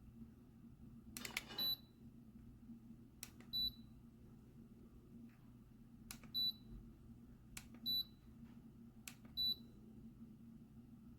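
Control buttons of a BOXING ultrasonic warm and cool mist humidifier being pressed: a click, then a short high beep, five times a second or two apart. The humidifier's steady low hum runs underneath.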